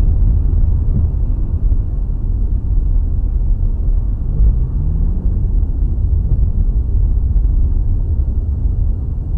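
Steady low rumble of a car in motion, engine and road noise picked up by a dashcam, with a short rising tone about halfway through as the engine speeds up.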